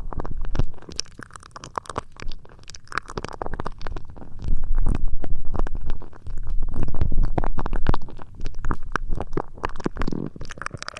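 Close-miked ASMR trigger sounds: muffled rubbing and scratching right on the microphone, a dense run of crackles over a low rumble, louder at the start and again from about four to eight seconds in.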